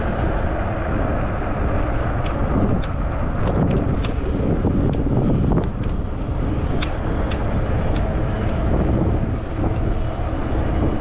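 Wind rushing over the microphone of a camera on a moving fat-tire e-bike, a steady rumble, with a scattering of sharp clicks between about two and eight seconds in.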